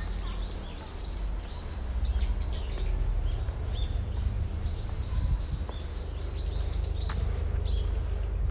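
Small birds chirping, many short high calls in quick succession, over a steady low rumble.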